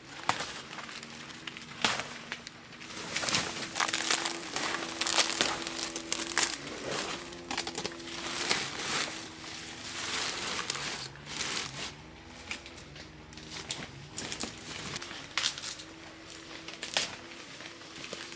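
Repeated crackling and crinkling. A low tone comes and goes underneath it in held, stepped notes.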